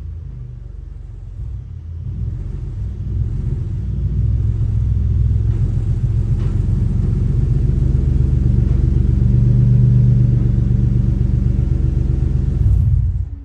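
Turbocharged V6 Ford Mustang engine running, its low steady note building in loudness over the first ten seconds, then stopping abruptly just before the end.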